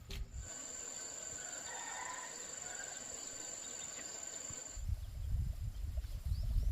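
An insect's steady, high-pitched drone, which cuts off abruptly about three-quarters of the way through. Low rumbling noise follows.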